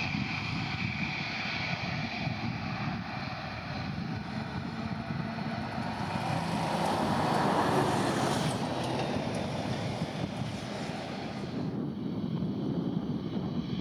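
Airbus A321neo jet airliner landing: a steady rush of jet engine and air noise that swells about seven seconds in, then eases.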